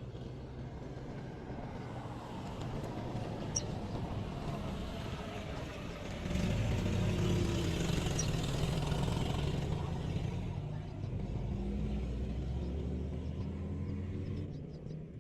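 A motor vehicle engine running with a low hum, louder from about six seconds in and easing off near the end.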